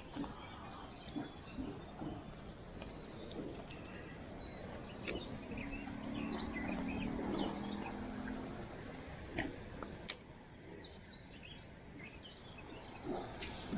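Small songbirds singing in quick high trills over a steady outdoor background hiss, with a faint low drone partway through.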